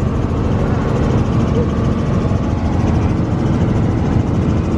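Helicopter in flight, heard from inside the cabin: a steady, loud drone of engine and rotor.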